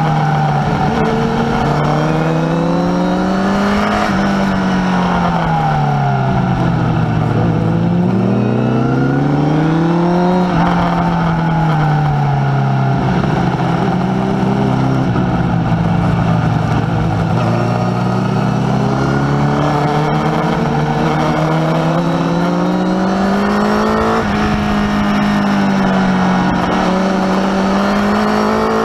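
Onboard sound of a Honda sport motorcycle's engine being ridden hard on a track in second gear. Its pitch falls twice off the throttle, holds low for a long stretch in the middle through a slow corner, and climbs steadily again as the bike accelerates out.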